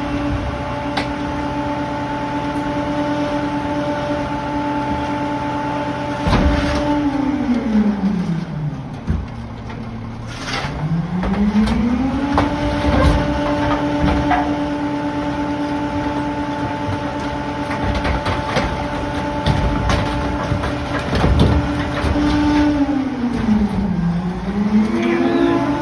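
Diesel engine of a Pak-Mor rear-loading garbage truck running at raised revs, dropping to idle about eight seconds in, climbing back up around twelve seconds, and dipping briefly again near the end. A few sharp knocks and crunches of debris land over it.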